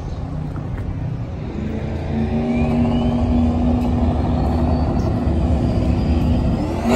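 Car engine running and growing steadily louder as it accelerates, with a thin high whine that climbs in pitch from about two seconds in.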